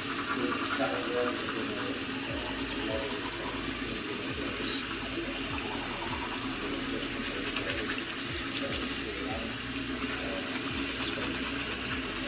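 Steady rushing noise, with faint voices underneath.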